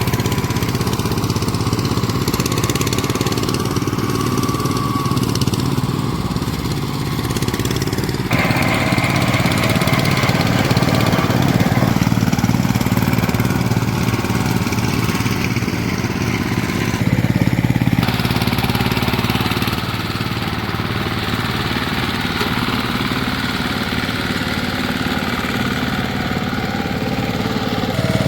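VST Shakti 130 DI power tiller's single-cylinder diesel engine running steadily, with abrupt changes in its sound about eight seconds in and again around seventeen to twenty seconds in.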